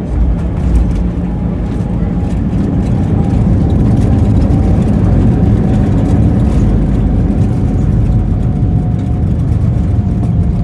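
An engine running with a loud, steady low rumble and a faint whine that slowly falls in pitch.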